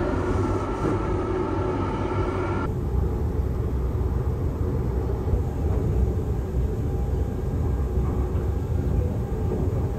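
Steady low running rumble of the Saphir Odoriko (E261 series) electric express train, heard from inside the carriage at speed. A faint hum of steady tones rides over it for the first few seconds, then the sound changes abruptly about three seconds in.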